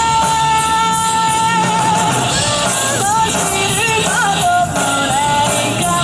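Live rock band playing with a lead singer: a long held vocal note opens, followed by shorter sung phrases that bend in pitch over the band.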